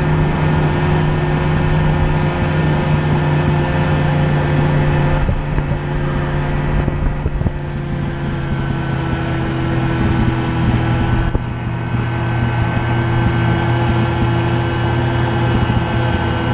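A vehicle engine running steadily, its note shifting slightly about five seconds in and again around eleven seconds.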